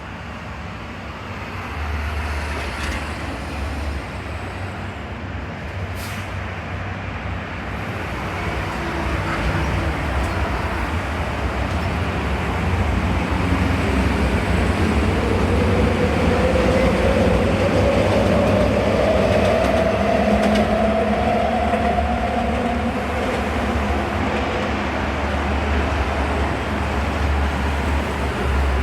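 SkyTrain passing over a steady low city hum. Its sound swells to a peak about halfway through, with a whine that rises in pitch, then eases off slowly.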